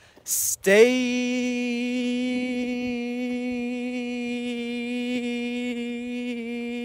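A person's voice drawing out the word 'stay' as one long held note: a short hiss of the 's', then a steady, unbroken vowel held for about six seconds.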